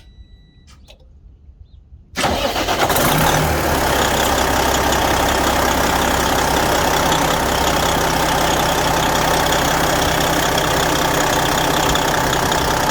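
A short beep, then about two seconds in a Detroit Series 60 diesel engine is started and settles at once into a steady idle. It is running on a newly replaced third injector, the one that had been misfiring.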